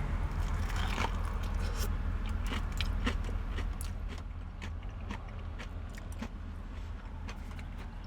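Someone biting into and chewing a crisp-coated fried chicken wing, with scattered short crunches that thin out after the first few seconds, over the steady low hum of a car.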